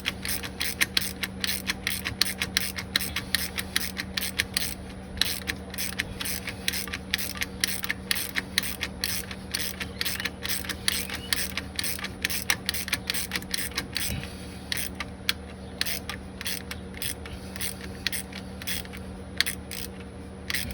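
9/16 ratcheting wrench clicking steadily, about three to five clicks a second, as it runs a nylock nut down onto the tensioner's Heim link bolt. The nut is a tight fit because of its nylon locking insert.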